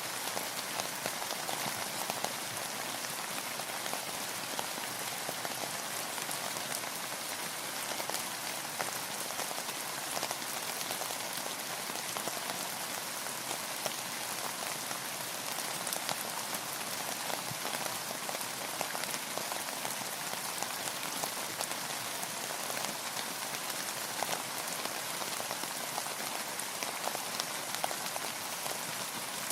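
Steady rain falling, with a dense patter of individual drops hitting a surface over an even hiss.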